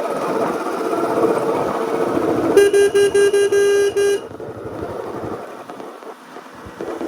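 Royal Enfield Standard 350's single-cylinder engine running while a vehicle horn sounds in a quick string of about seven short toots. After the horn the engine drops to a quieter run, then grows louder again near the end.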